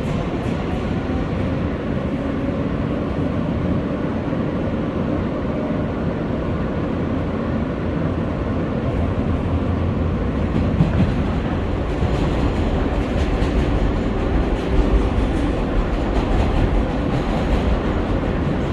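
An R143 subway train running between stations, heard from on board: a steady rumble of wheels on rail and running gear, with a couple of louder jolts about halfway through.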